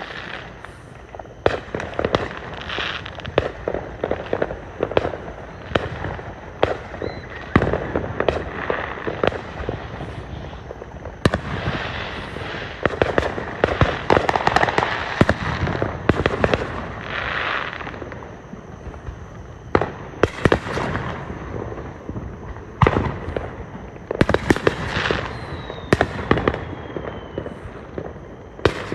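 Fireworks going off in quick succession: sharp bangs of exploding shells at uneven intervals, with dense crackling and popping in the middle.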